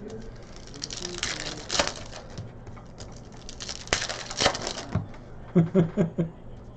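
Foil card-pack wrappers and trading cards being handled: crinkling, rustling and sharp little clicks and snaps. Near the end come four or five short, quick voice sounds.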